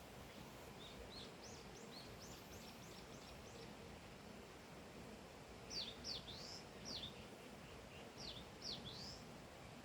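Small bird calling outdoors: a run of faint, quick high chirps in the first few seconds, then about six louder sharp notes that sweep down in pitch in the second half, over a faint steady hiss.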